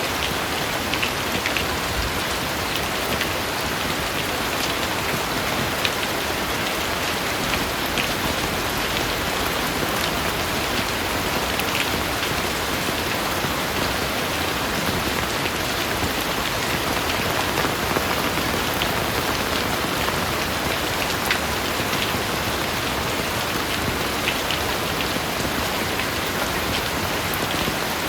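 Heavy rain falling steadily, a dense even hiss with many individual drops pattering sharply on a hard surface; no thunder stands out.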